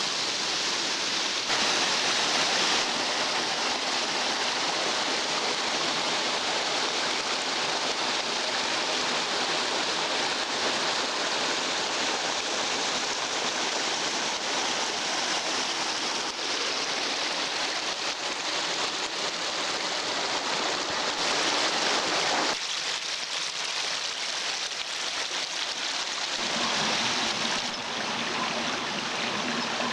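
Rain and running rainwater making a steady rushing sound. It shifts abruptly in tone several times, as at cuts between recordings.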